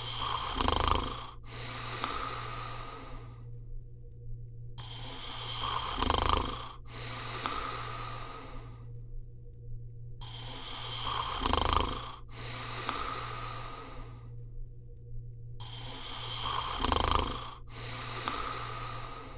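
Landseer Newfoundland dog snoring in deep sleep: four slow breaths about five seconds apart, each a rough snore that breaks off briefly into a longer airy hiss.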